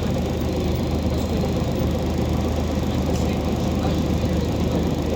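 Scania OmniCity city bus's diesel engine running steadily with a low hum, with no revving or change in pitch.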